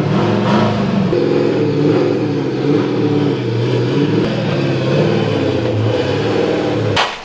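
Car engine running while driving, its pitch rising and falling as it revs and eases off. It cuts off abruptly near the end.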